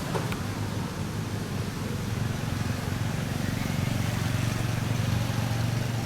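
A vehicle engine running with a steady low hum that grows a little louder in the second half, and a short click shortly after the start.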